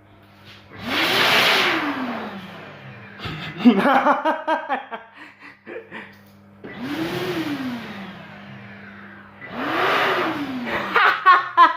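APL high-speed electric hand dryer blowing in three short bursts. Each time the motor spins up with a rush of air and winds down again within about two seconds. Between the bursts come a few short pitched sounds, the loudest about four seconds in and near the end.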